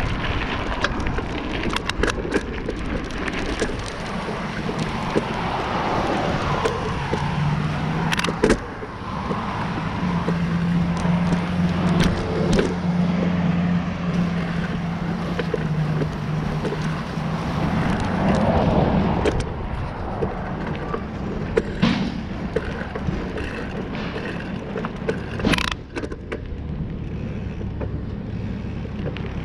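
Bicycle ride noise: wind and tyre noise on the road, with scattered sharp knocks. A motor vehicle's low engine hum is heard for several seconds through the middle, dropping slightly in pitch as it goes.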